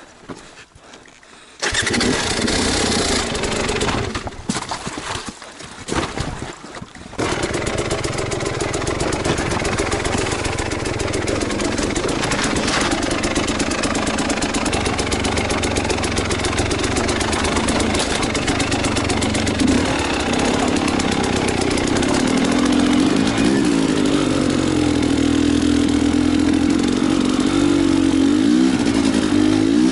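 Enduro motorcycle engine starting abruptly about two seconds in, dipping and breaking up for a few seconds, then running steadily from about seven seconds on.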